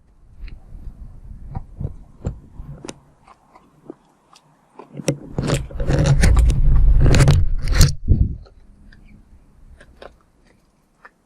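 An animal feeding right at the microphone: close crunching and scraping with sharp knocks, loudest for a few seconds about halfway through, then fading to scattered ticks.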